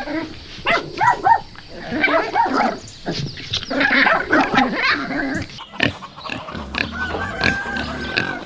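French bulldogs and other small dogs making a quick run of short grunts and yaps as they play; near the end, pigs grunting.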